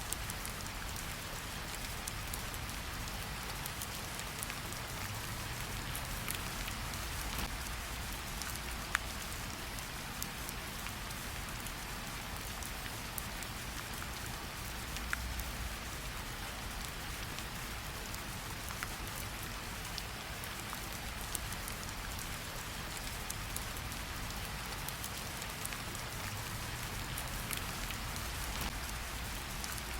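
Steady rain falling on tree leaves, an even hiss with many scattered drop ticks and a few louder single drips.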